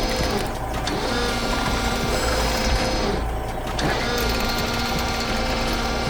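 Steady mechanical motor sound, engine-like, whose pitch dips and recovers twice.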